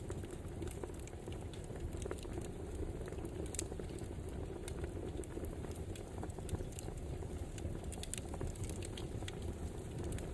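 Wood fire crackling: a steady low rustle of flames with frequent small, irregular pops and snaps.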